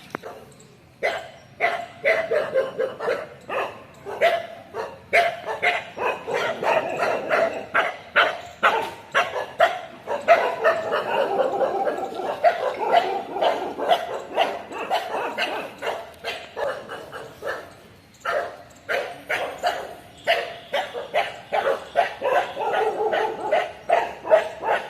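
Several dogs barking in quick, overlapping runs, the barks coming several a second. The barking pauses briefly about 18 seconds in, then starts up again.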